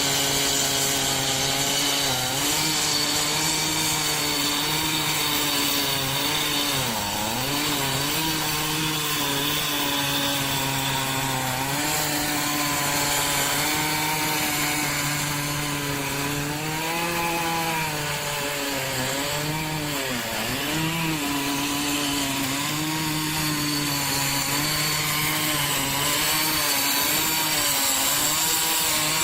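Long-bar chainsaw running at high revs while cutting through a large oak log. Its engine note sags briefly several times as the bar bites into the wood, then climbs back.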